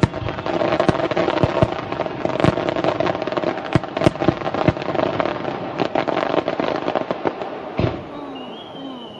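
Fireworks going off: many sharp bangs over dense crackling, which thin out near the end as a high whistle slides down in pitch.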